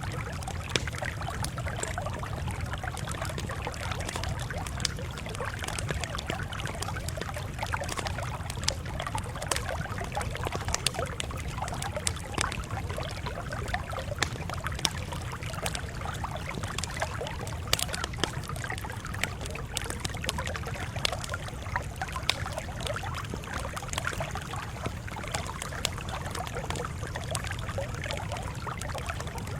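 Campfire crackling: frequent irregular sharp snaps and pops over a steady hiss and low rumble.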